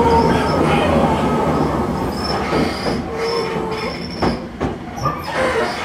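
Local electric commuter train as heard inside the passenger car while running: a steady low rumble with wheels squealing in thin wavering tones. A few sharp knocks come about four seconds in as the rumble slowly fades.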